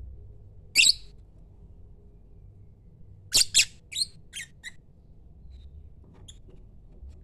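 Lovebird giving short, sharp, high-pitched calls: one at about a second in, then a quick run of five a couple of seconds later, trailing off weaker, and a last faint one near the end.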